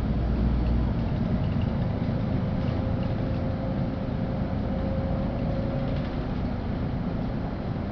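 Inside a LiAZ-5292.65 city bus under way: steady engine and road noise, deepest at the low end. A faint steady whine rises out of it for a few seconds in the middle.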